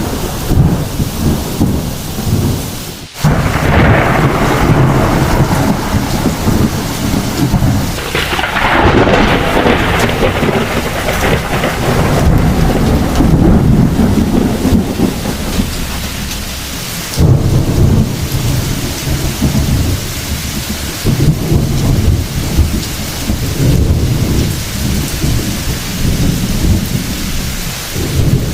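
Thunderstorm: heavy rain falling under continuous rolling thunder. Louder thunder peals break in about three and a half seconds in and again about eight seconds in, and another rumble starts suddenly a little past halfway.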